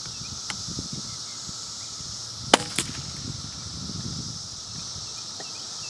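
A single suppressed .22 LR rifle shot, a Ruger Precision Rimfire with a Silencer Central Banish 30 firing 38-grain subsonic rounds: one short, sharp crack about two and a half seconds in, followed a fraction of a second later by a fainter second crack. A steady high insect hum runs underneath.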